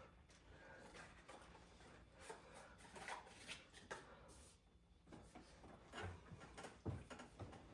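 Near silence: room tone with a few faint scattered clicks and rustles of small handling noises.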